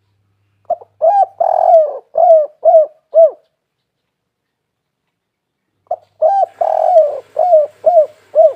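Spotted dove cooing in two phrases: each is a short opening note followed by a quick string of about five down-curving coos. The second phrase begins about six seconds in.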